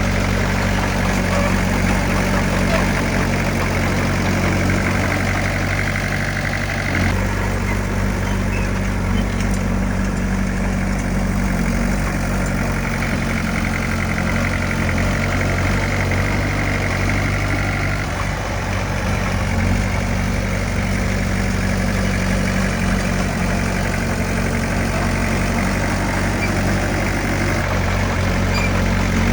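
Diesel engine of heavy earthmoving machinery running steadily, with a slight change in its note about seven seconds in.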